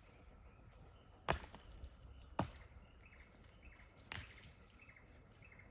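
Quiet outdoor background with three sharp clicks or taps, the second about a second after the first and the third nearly two seconds later, and faint bird chirps.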